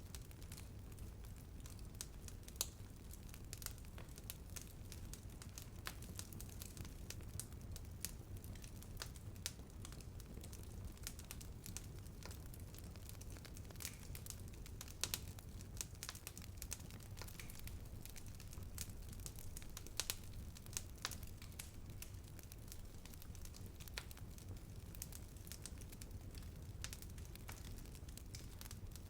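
Wood fire burning steadily with a low rumble and frequent irregular crackles, a few of them sharper pops.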